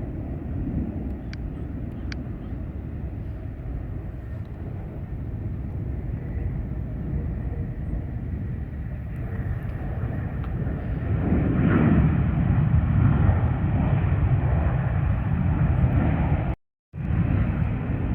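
Jet airliner's engines rumbling, growing louder about two-thirds of the way through as the plane comes closer. The sound cuts out completely for a split second near the end.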